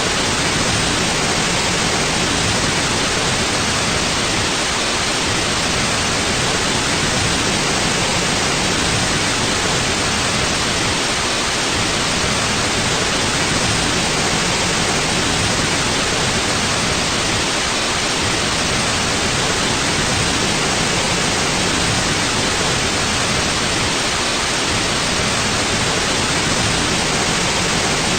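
Steady white noise: an even, unchanging hiss that is brightest in the upper range.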